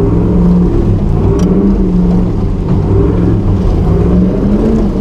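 Nissan GQ Patrol 4x4's engine running loud and steady, with the revs wavering up and down.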